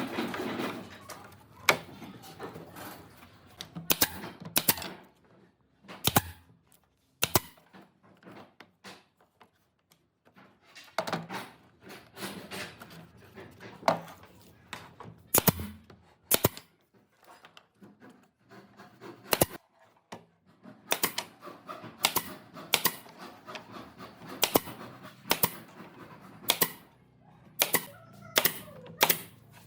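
Irregular sharp knocks and taps of tools striking wood, coming singly and in quick clusters with pauses between, some ringing briefly.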